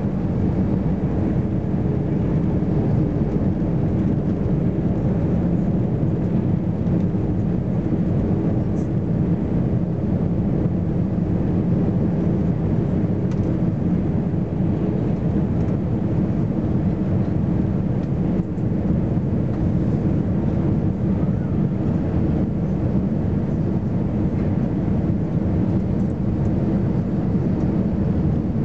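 Steady drone of the CFM56 engines and airflow heard inside the cabin of an Airbus A320-214, even and unbroken, with a faint low hum.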